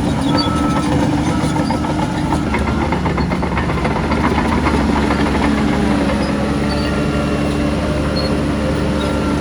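Diesel engine of heavy earthmoving machinery running steadily, its tone holding level. There is a stretch of rapid clicking a few seconds in.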